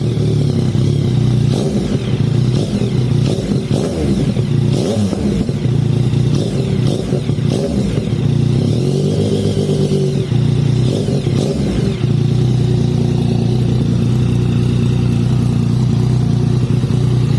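Yamaha MT-09's inline-three engine running through a clone Akrapovic full-system aftermarket exhaust. It idles with a few short throttle blips in the first dozen seconds, then settles into a steady idle.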